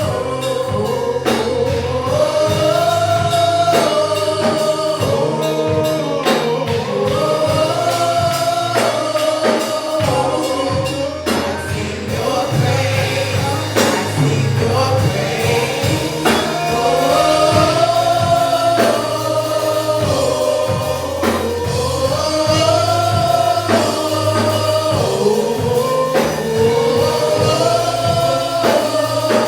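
Gospel choir singing a repeated phrase over a band with bass and drums.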